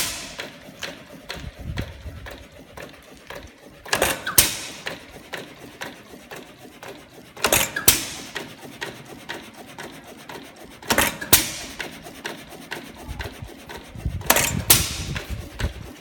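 Lauson Lawton 2-1/2 hp side-shaft hit-and-miss engine running. It fires two sharp bangs about half a second apart roughly every three and a half seconds, four times, and coasts between firings with light mechanical clicking.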